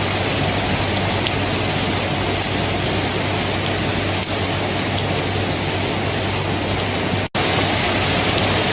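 Steady heavy rain falling, with a low steady hum under it and a split-second dropout about seven seconds in.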